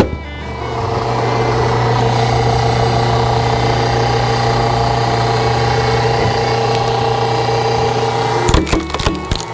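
Hydraulic log splitter running steadily, its motor and pump giving a constant hum with a couple of held tones. A quick cluster of sharp knocks and cracks comes near the end.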